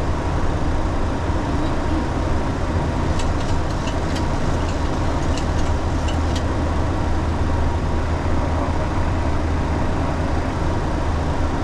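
Steady flight-deck noise of a Boeing 737 in flight: a low hum under a broad, even rush of airflow. A few faint clicks come between about three and six and a half seconds in.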